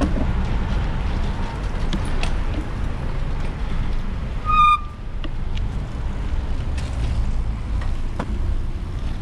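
Street traffic with low wind rumble while riding a bicycle toward a road crossing, with a short high-pitched beep about four and a half seconds in.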